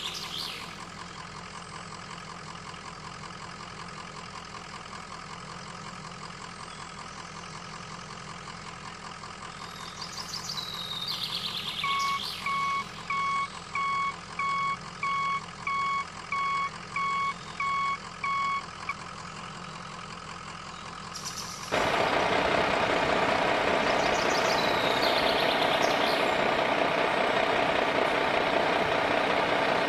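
Truck sounds: an engine running low and steady, then a reversing alarm beeping about one and a half times a second for some seven seconds. About two-thirds of the way in, a louder, rougher engine sound takes over.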